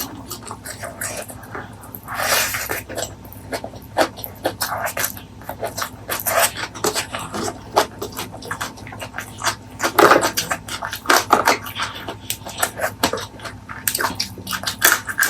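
Close-miked eating sounds: wet chewing and lip smacks, coming as quick, irregular clicks and short noisy bursts.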